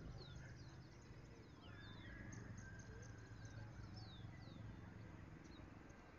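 Faint birdsong: many short, falling whistled notes, roughly two a second, over a low steady rumble.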